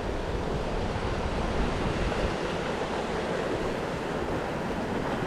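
Surf washing on the shoreline, a steady rush of waves, with wind on the microphone.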